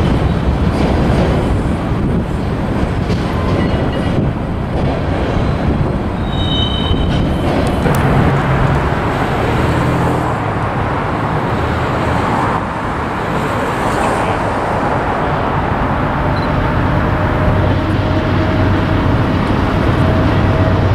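Freight train rolling past, a steady rumble of railcars on the rails.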